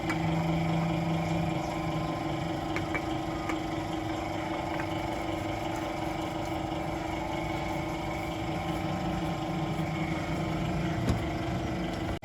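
Toyota GLI car engine idling steadily, a constant even hum, with a single light click about eleven seconds in.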